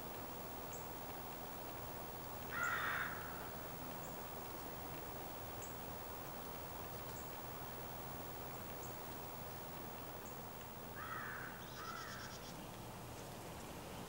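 A bird giving harsh calls: one loud call about three seconds in, then two shorter ones in quick succession near the end, over a steady low outdoor background noise. Faint high ticks repeat about once a second throughout.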